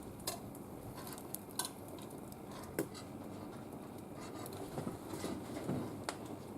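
Wood fire crackling, with a few sharp, irregular pops over a low steady hiss.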